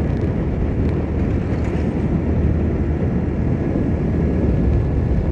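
Motorcycle on the move: a steady rush of wind on the rider's microphone mixed with engine and road noise.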